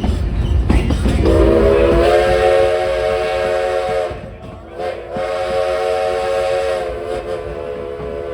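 Steam locomotive whistle blown twice: a long blast that slides up to pitch as it opens, a brief break, then a second long blast, with a hiss of steam over it.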